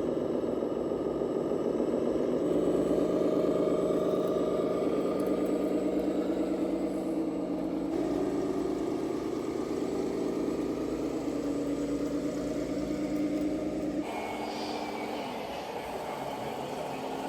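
Scale RC trucks and tractors running, giving a steady engine-like running note. The sound changes abruptly twice, about eight and fourteen seconds in.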